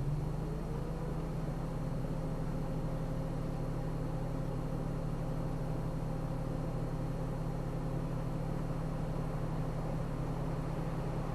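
Car engine running steadily while driving, its pitch rising during the first second or two as it picks up speed and then holding even.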